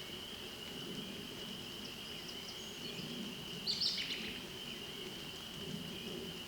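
Steady high-pitched trilling chorus of frogs or insects in a wet meadow, with a lower wavering hum beneath. A bird gives one brief call a little under four seconds in.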